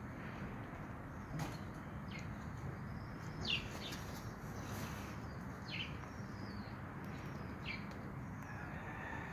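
Birds chirping: short, high calls every second or two, the loudest about three and a half seconds in, over a steady background hiss.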